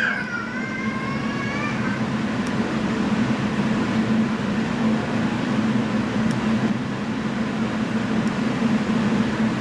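Electric train running along the line, heard from inside: steady rolling rail noise with a low hum, plus a brief wavering whine that fades out within the first two seconds and a few faint clicks.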